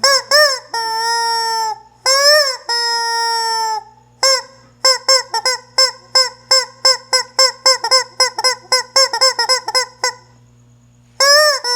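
Screaming rubber chicken squeeze toy squawking: two long squawks, then a quick run of short squawks at about three a second that stops about ten seconds in, and a fresh long squawk near the end.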